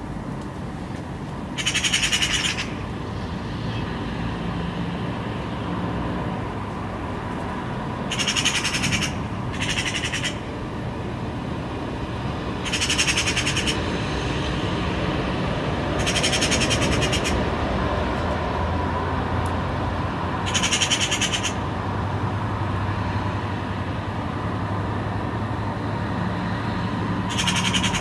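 A bird chattering in short rapid bursts of about a second each, seven times, high-pitched and rattling, over a steady faint background hum.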